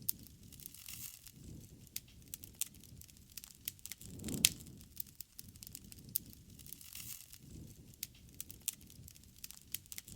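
Wood campfire crackling, with irregular sharp pops (the loudest about four and a half seconds in) over soft low swells of the burning fire.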